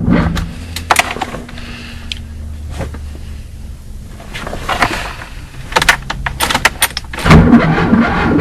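Sharp clicks and a brief jangle of car keys over a faint, steady low hum, between stretches of music.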